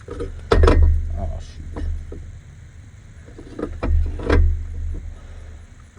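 Knocks and clanks of tools and parts being handled while working on an engine, with two heavy thumps about half a second and four and a half seconds in.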